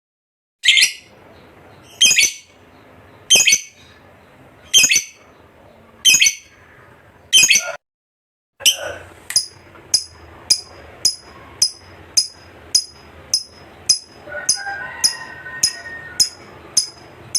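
Pet lovebird calling in short, shrill, repeated chirps. At first there is one call about every second and a half; after a brief silence the calls come faster, about two a second.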